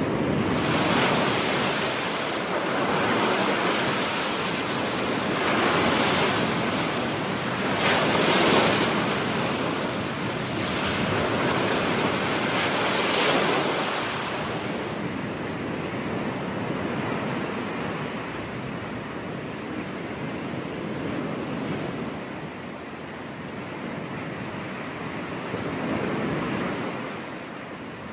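Ocean waves breaking on a beach, the surf swelling and falling in several surges before settling into a softer wash of water about halfway through. Wind rushes on the microphone at times.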